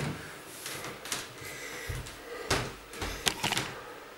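A string of knocks, thuds and sharp clicks from objects being handled indoors, typical of a door or cupboard and boxes being moved about, with heavier thuds about halfway through.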